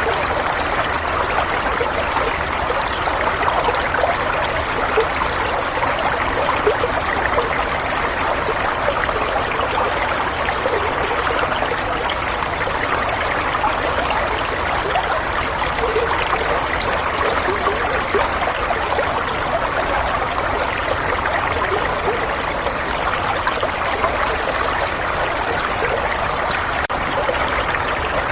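Running water, a steady even flow like a stream or tap with many small splashes and trickles and no change in level.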